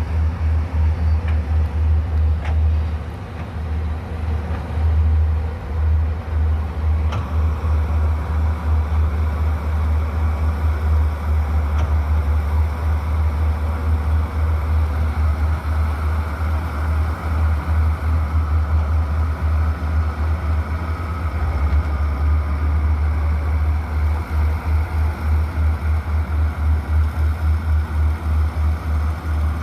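Engine of heavy road-construction machinery running steadily, with a low, rapidly pulsing throb.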